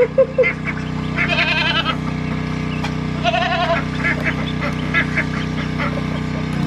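Goat bleating twice, two wavering calls of about half a second each, with short high chirps of other small animals or birds around them.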